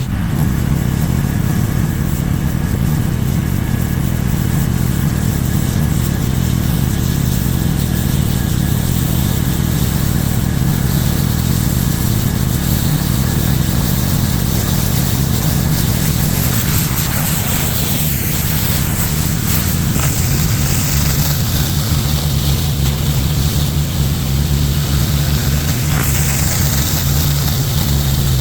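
Petrol-engine pressure washer running steadily at working speed, with the hiss of the high-pressure water spray on top.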